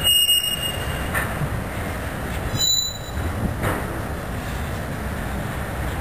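Freight cars rolling past on the rails with a steady rumble, and brief high wheel squeals at the start and again about two and a half seconds in.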